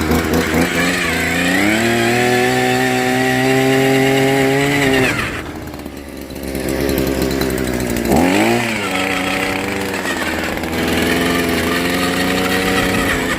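A power tool or small motor run twice: it winds up to a steady pitch, holds for a few seconds and stops, then starts again sharply and runs for several more seconds.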